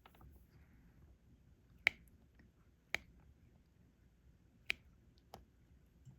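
A few sharp clicks of a diamond painting pen tapping drills onto the sticky canvas, four taps a second or so apart.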